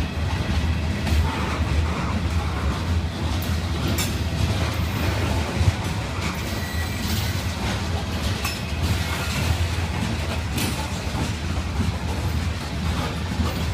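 Kansas City Southern freight train rolling past: a steady low rumble with scattered sharp clicks from the wheels on the rails.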